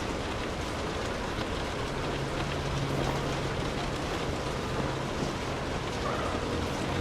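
Steady rainfall, an even hiss with scattered drop ticks. A low steady hum joins it from about two seconds in and fades near the end.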